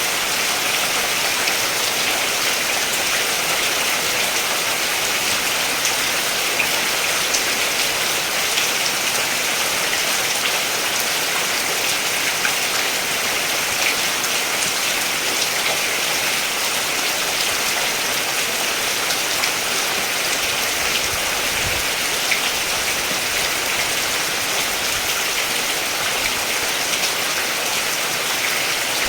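Steady rain falling, an even dense hiss with scattered fine drop ticks.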